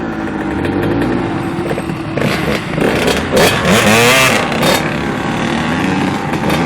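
Dirt bike engines running, with one revving up and down loudly about halfway through before dropping back.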